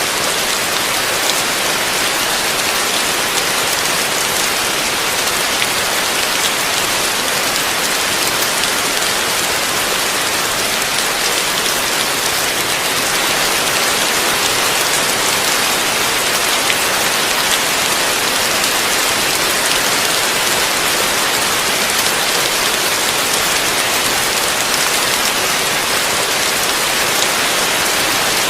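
Heavy rain falling steadily, an unbroken hiss of drops without a break or change.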